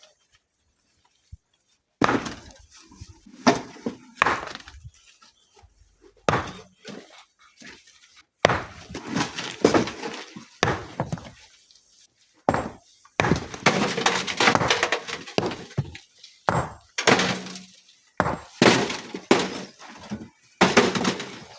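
Rocks being broken and thrown into a dump truck bed. From about two seconds in there are repeated stone-on-stone and stone-on-metal impacts, some single and sharp, others running together into longer clattering runs.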